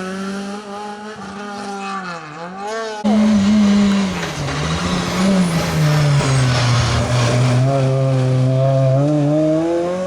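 Rally car engine at high revs, the note dipping briefly about two seconds in, then the car arrives close with a sudden loud rush of tyre noise as it slides through, its engine note falling and climbing again near the end.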